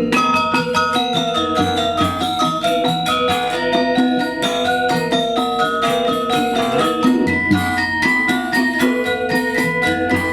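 Balinese gamelan playing a fast, dense stream of ringing struck notes on bronze metallophones, over sustained lower tones.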